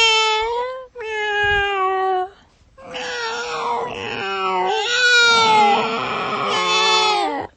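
A cat meowing in a series of long, drawn-out calls, each bending in pitch, with short breaks between them.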